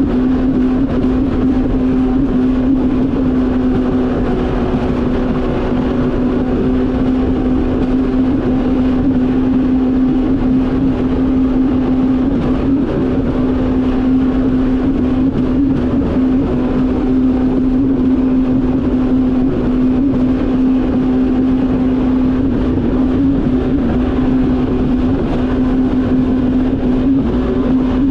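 Yamaha VX Cruiser H.O. WaveRunner's engine and jet pump running steadily at cruising speed, holding one constant pitch, with water and wind rushing past.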